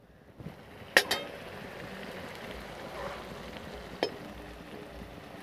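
Tomato-onion masala sizzling in a karahi as ginger-garlic paste goes in, the frying rising about half a second in. A spoon clinks sharply against the pan twice in quick succession about a second in, and once more near four seconds.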